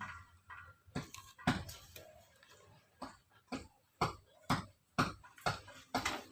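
Repeated sharp knocks on wood, about two a second, with a short pause partway through, from hand work on bird-cage spokes.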